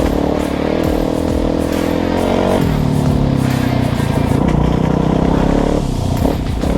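Kawasaki KX450 dirt bike's four-stroke single-cylinder engine running under throttle while riding. Its pitch changes about two and a half seconds in, and it briefly eases off near the end.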